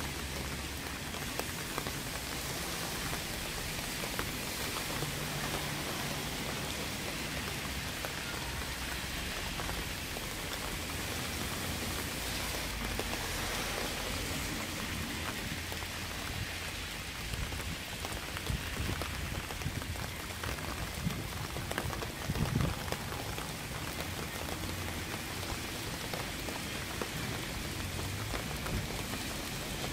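Steady rain falling and pattering on surfaces, with a few louder low knocks about twenty seconds in.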